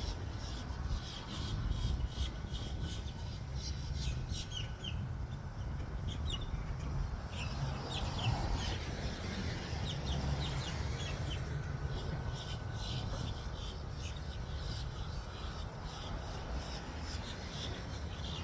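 Birds chirping repeatedly in short calls, over a steady low rumble.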